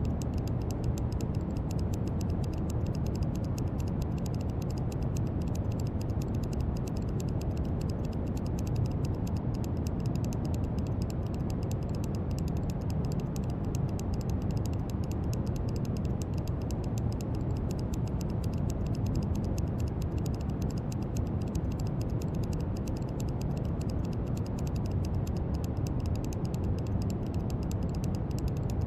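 Brown noise: a steady, deep rushing hiss, strongest in the bass, with a faint fine crackle on top.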